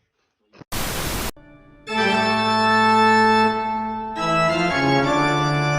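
A half-second burst of hiss-like noise, then sustained organ chords held for a few seconds that shift to a new chord about four seconds in.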